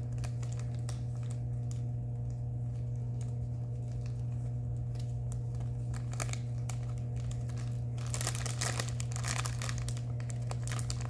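Small plastic bags of diamond-painting drills crinkling as they are handled and checked one after another, with a denser stretch of rustling about eight seconds in. A steady low hum runs underneath.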